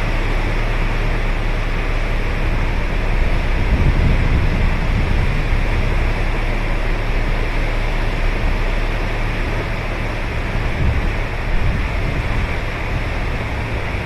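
Sea surf breaking on a beach: a continuous rush of waves, with a low rumble that swells a little now and then.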